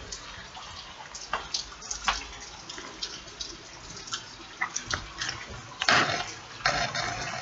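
Heavy rain falling, with frequent close drips tapping and splashing near the microphone. A louder splash or knock comes about six seconds in.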